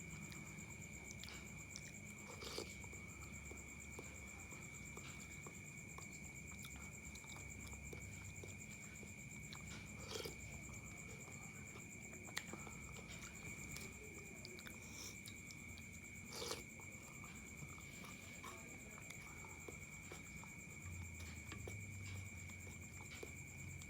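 Faint mouth sounds of eating mie ayam chicken noodles: quiet chewing with a few short, separate smacks or clicks, over a steady high-pitched background tone.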